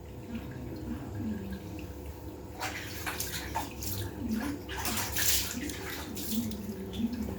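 Water splashing and pouring during a cat's bath, in irregular bursts starting about two and a half seconds in, over a steady low hum.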